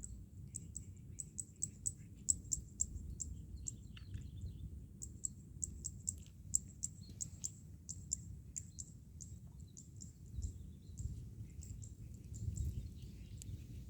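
A small bird chirping in a quick run of short, high-pitched notes, about three a second, pausing briefly partway through, over a steady low rumble.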